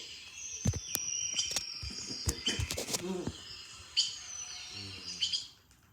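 Forest ambience: birds calling and chirping with high whistles and trills, over a background of insects. It fades out near the end.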